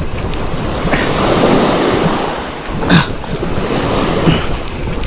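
Surf washing onto the beach, swelling and easing, with wind buffeting the microphone. A brief sharp knock about three seconds in and a smaller one a second later.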